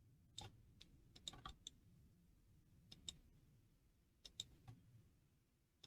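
Near silence broken by faint, scattered clicks at a computer, from mouse and keys. There are single clicks and a short quick run of them about a second and a half in.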